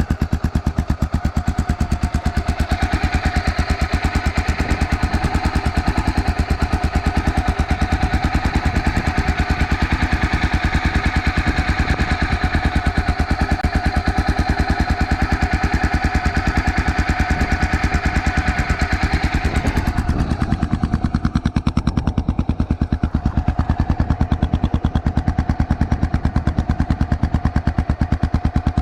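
Honda XR650L's single-cylinder four-stroke engine idling through an aftermarket White Brothers exhaust, a rapid, even train of exhaust pulses. The higher hiss thins out about two-thirds of the way through.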